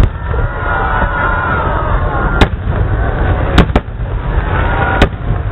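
Aerial fireworks shells bursting: four sharp bangs, one about two and a half seconds in, two close together a second later and one near the end, over a continuous low rumble.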